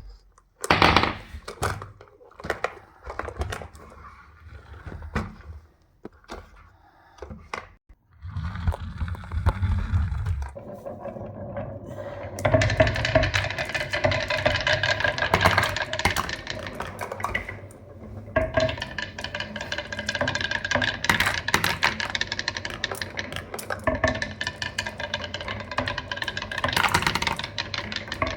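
Marbles rolling and clattering down a marble run: scattered knocks at first, then from about ten seconds in a dense, continuous rattle of many marbles with a ringing tone through it.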